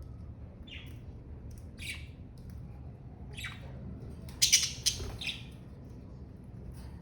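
Budgerigars chirping and squawking in short, scattered calls, with the loudest burst of sharp calls a little past the middle.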